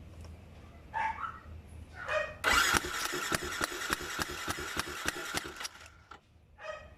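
Yamaha Sniper 135 motorcycle engine being cranked over by its starter for about three seconds with a fast, even ticking, without firing: a spark test on a hard-starting engine, with the spark plug just changed.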